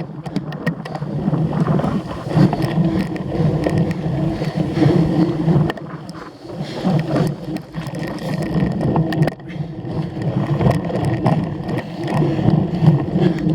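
Cyclocross bike ridden hard over rough ground: rolling tyre rumble and drivetrain noise with irregular rattling knocks from bumps, and wind buffeting the microphone.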